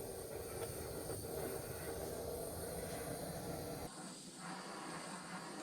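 Gas blowtorch flame hissing steadily as it is played over a freshly sanded spotted gum handle to burn off fine wood fibres; the sound drops away sharply about four seconds in.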